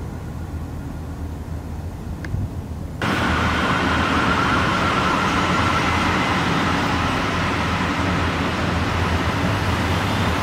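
Steady rumble of a distant approaching diesel-hauled passenger train. About three seconds in, the sound jumps abruptly louder into a steady rushing noise.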